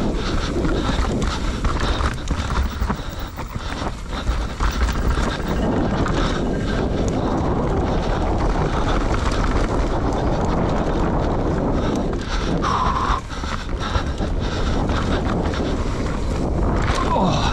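Enduro motorcycle engine running as the bike is ridden, with heavy wind noise on the microphone.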